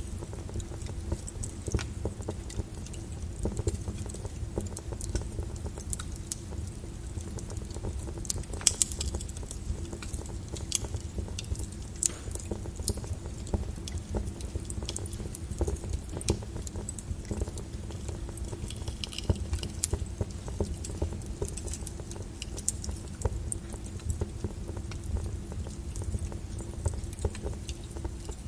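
Wood fire crackling with frequent sharp pops and ticks over a steady bed of rain.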